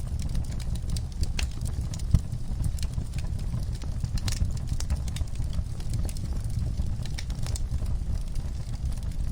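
Wood fire in a fireplace crackling: irregular sharp pops and snaps over a low, steady rumble of the flames, with one louder pop about two seconds in.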